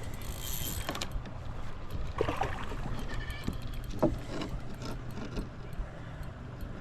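Kayak and fishing gear knocking and rattling while a hooked fish is fought beside the boat, with a few sharp knocks.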